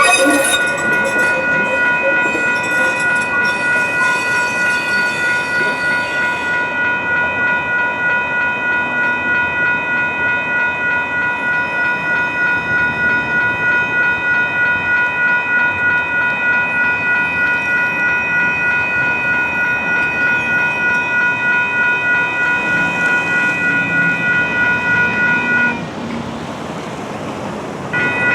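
Grade crossing warning bells ringing steadily in an even, rapid pulse, with a light rail train passing through the crossing in the first several seconds. The bells stop briefly near the end, then start ringing again.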